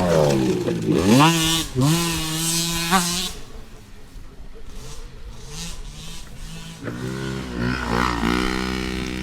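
Small dirt bike engines revving, the pitch rising and falling over the first three seconds. After a quieter stretch, a steadier engine note comes in about seven seconds in.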